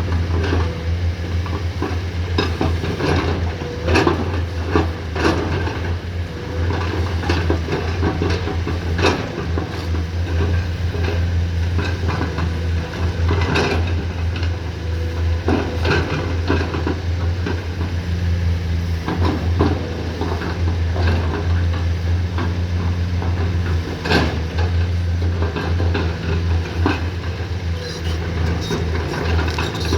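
Komatsu PC210-10M0 excavator's diesel engine running steadily under work. Irregular metallic clanks and knocks from the bucket and linkage come on top as it digs and levels the road bed.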